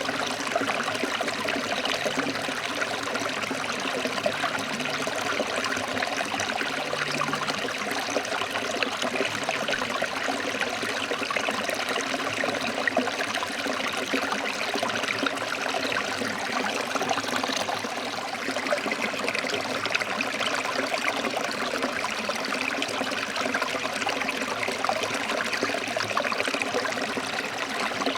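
Forest stream flowing over rocks: a steady, dense rush of water with fine splashing and trickling, unchanging throughout.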